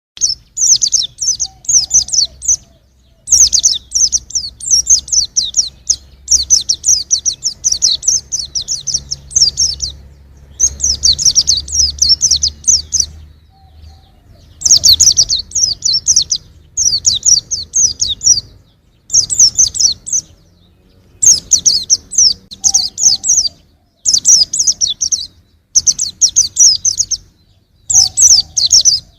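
Young white-eye (pleci) singing: fast, high twittering phrases of one to three seconds, repeated again and again with short pauses between them.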